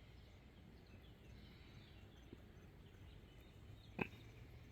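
Near silence with faint, scattered bird chirps and one sharp click near the end.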